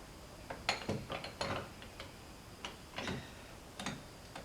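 About a dozen irregular clicks and knocks, mechanical in character, as of metal parts being handled or shifted.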